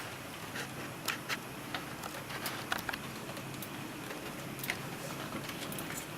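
Scattered small clicks and taps of hands handling desktop computer parts and cords, over a steady background hiss.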